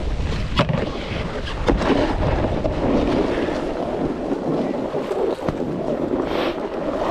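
Wind buffeting the microphone of a body-mounted camera, over the hiss and scrape of a snowboard sliding on snow, with a few sharp knocks near the start.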